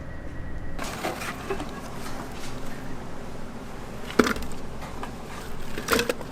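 Scattered light clicks and knocks from hands at work, with one sharp knock about four seconds in and a couple more near the end.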